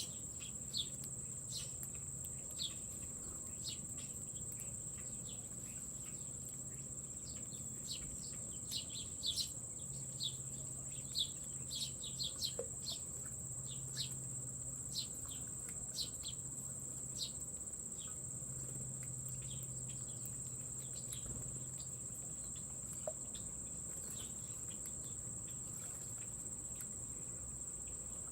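A steady, high-pitched insect trill, like a cricket chorus, with many short bird chirps scattered over it, most frequent in the middle.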